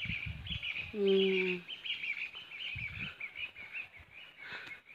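Many small birds chirping continuously in an early-morning chorus. About a second in comes a brief low steady tone.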